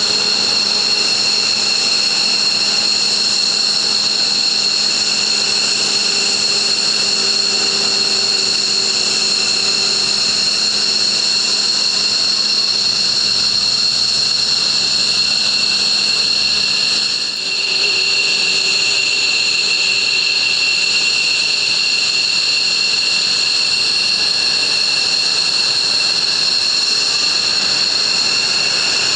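Military jet engines running at ground idle: a loud, steady high-pitched turbine whine of several tones over the rush of the exhaust, with a brief dip about seventeen seconds in.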